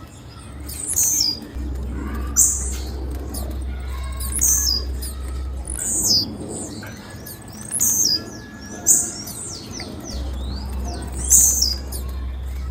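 Female blue-black grassquit (tiziu) giving short, high, downward-sliding chirps, repeated every second or two. A low steady hum comes in about a second and a half in, drops out near the middle and returns near the end.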